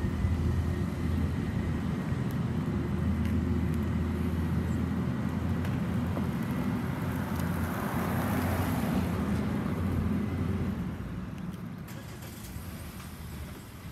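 CNG Peterbilt garbage truck's engine running steadily, with a swell of louder noise around the middle. The sound then fades by about half from about eleven seconds in.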